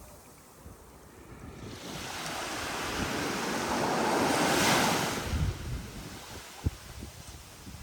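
A sea wave breaking and washing up the shore: the rush of surf builds over a few seconds to a peak about halfway through, then fades, with wind buffeting the microphone.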